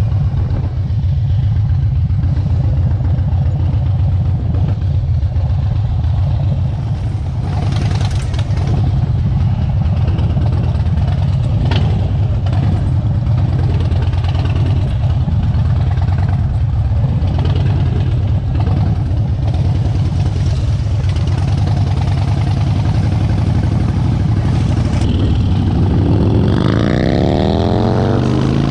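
Harley-Davidson V-twin motorcycle engine running steadily under way, a deep pulsing rumble. Near the end an engine note climbs in pitch as it accelerates.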